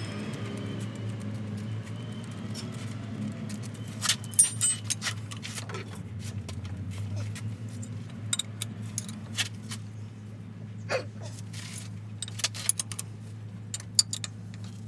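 Metal tools and parts clinking and tapping in irregular sharp clicks, loudest about four seconds in, over a steady low hum.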